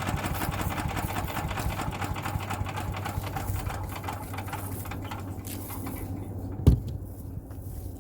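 Champion 224cc wood chipper's single-cylinder gas engine running steadily; about five and a half seconds in its sound drops and thins out. A single sharp knock comes near the end.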